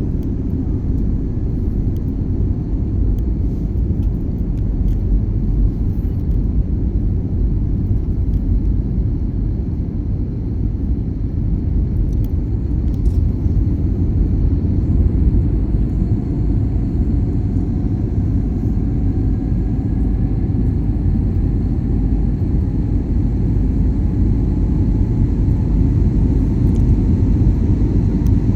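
Airplane taking off: a loud, steady low rumble, with a faint whine that slowly rises in pitch from about halfway through.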